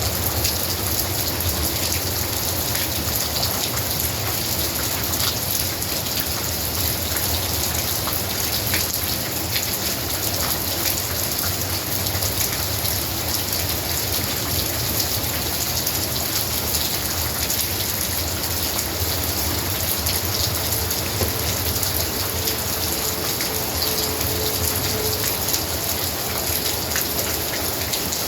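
Steady rain falling, an even hiss with scattered sharper drop impacts ticking through it.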